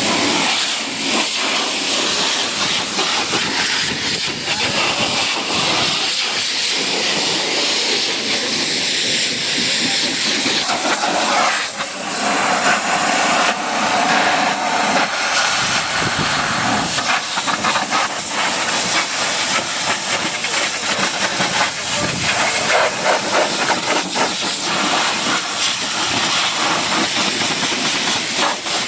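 High-pressure washer spraying water against a car, a loud steady hiss with a brief break about twelve seconds in.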